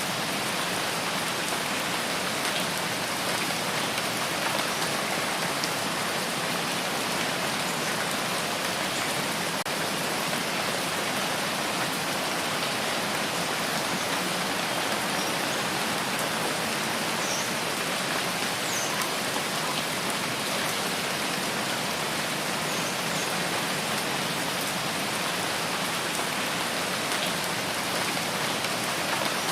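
Steady, dense rainfall on foliage in a rain forest, an even hiss of drops with no let-up. A few faint high chirps come through about halfway in.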